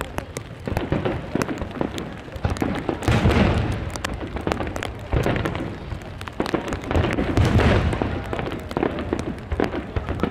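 Large aerial fireworks shells bursting overhead, a deep boom with a rolling rumble every two seconds or so, with many sharp pops and crackles in between.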